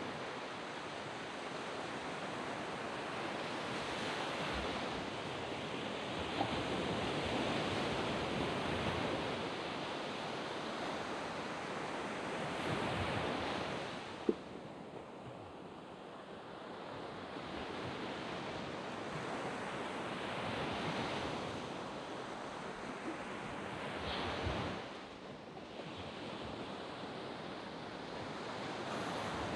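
Sea waves breaking and washing up a sand beach: a steady rush that swells and ebbs every few seconds. There is a single sharp click about fourteen seconds in.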